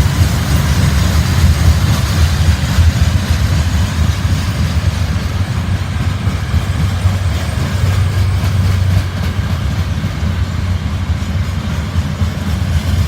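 Freight train of covered hopper cars rolling past, a loud, steady, heavy rumble of steel wheels on rail that eases slightly about nine seconds in.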